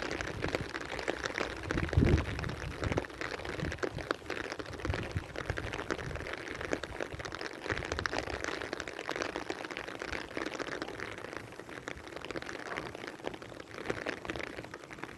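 Rain falling, a steady patter of many small drops, with a low thump about two seconds in.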